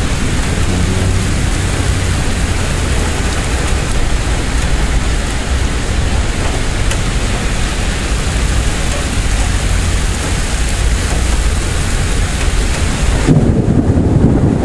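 Heavy rain pouring in a thunderstorm: a steady, loud hiss with a low rumble beneath it. About thirteen seconds in, wind gusts start buffeting the microphone.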